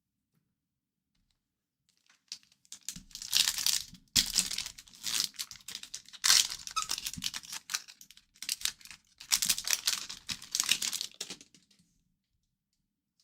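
A hockey card pack's wrapper being torn open and crinkled by hand. The crackling starts about two seconds in and comes in several loud bursts before stopping near the end.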